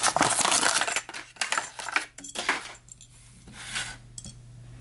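Packaged die-cast toy cars being handled and shuffled: plastic blisters and card backings clattering and rubbing, busiest in the first second or so, then thinning to scattered clicks.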